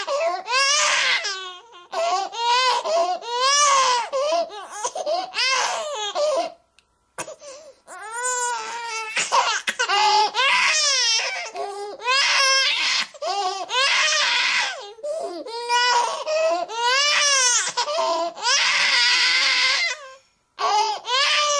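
Infant crying in repeated wailing cries, each about a second long and bending up and down in pitch, broken by short breaths and a brief silence about six seconds in.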